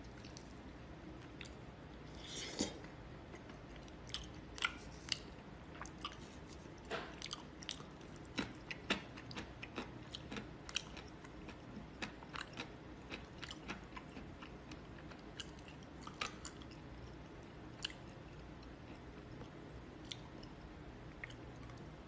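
A person chewing food close to the microphone: irregular sharp crunches and clicks, thickest through the middle and thinning out near the end.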